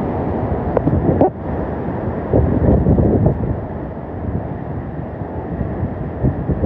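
Hurricane-force wind gusting hard against the microphone, a loud, uneven rush that swells and eases from moment to moment.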